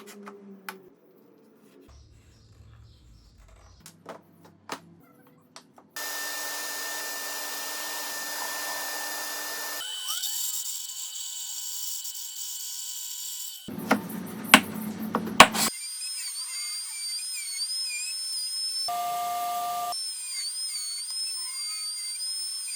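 Workshop tool sounds cut together in short pieces: a power tool running steadily for a few seconds, scattered clicks, and a cluster of loud sharp knocks about two thirds of the way in.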